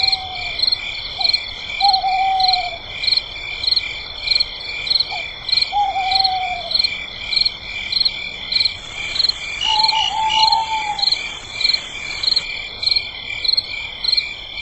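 Night chorus of frogs and insects: a steady high trill with a pulsed call repeating about twice a second. Four times, a short lower call falls in pitch, the last about ten seconds in.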